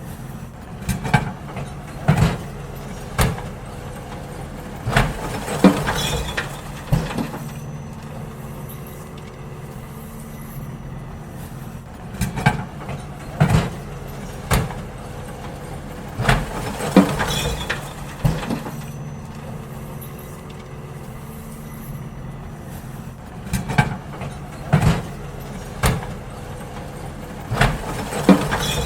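Garbage truck engine running steadily while wheelie bins are emptied. Clusters of bangs and knocks from the bins and the lifting gear come every few seconds.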